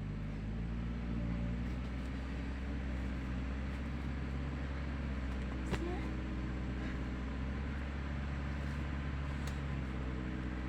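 A bulldozer's diesel engine running steadily, a low, even engine drone.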